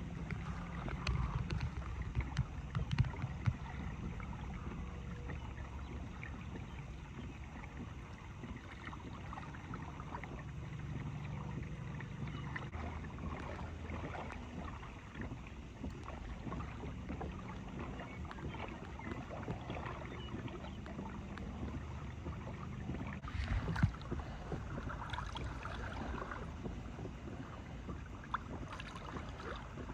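Water lapping and splashing against a kayak hull, with small ticks and a low wind rumble on the microphone. A few louder knocks come about a second in and again near the end.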